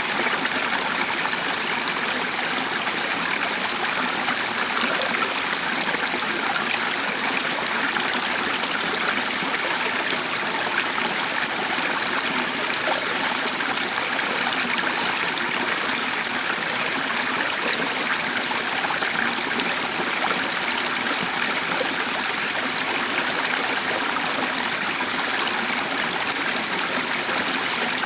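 Flowing water of a stream, a steady, even rush with no breaks.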